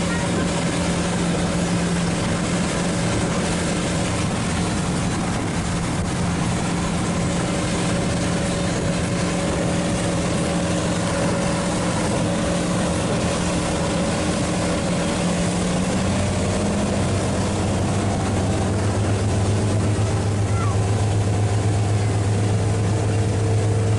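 Ski boat's Mercury engine running under way over a steady rush of noise; about two-thirds of the way through, the engine note changes and a deeper tone comes in.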